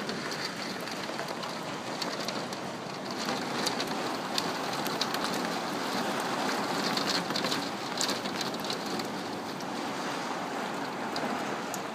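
Heavy rain falling steadily, with scattered sharp ticks of drops.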